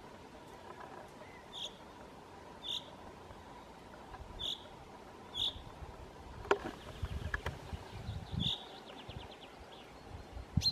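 Short, high bird call notes, five of them spaced about a second apart, with a quick run of ticking notes about nine seconds in. Dry leaf litter rustles with a couple of clicks about two-thirds of the way through, and there is a sharp click at the very end.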